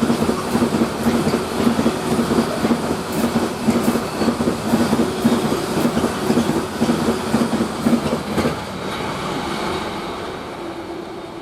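Freight train passing through the station, its wagons clattering over the track in a quick, even rhythm with a steady drone. About eight and a half seconds in the clatter stops as the train goes by, and the rumble fades away.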